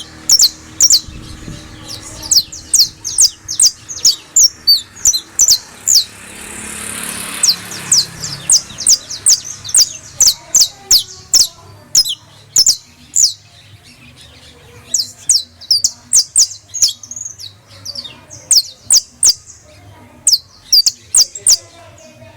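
A canario criollo singing: sharp, high, downward-sweeping notes, several a second, in phrases broken by short pauses.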